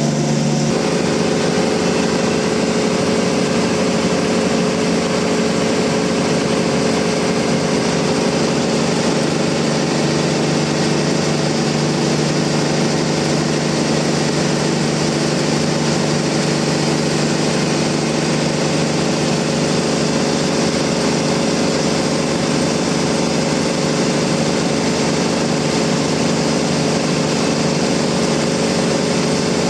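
Bandsaw mill running steadily with a steady engine-like hum, its pitch shifting slightly about a second in.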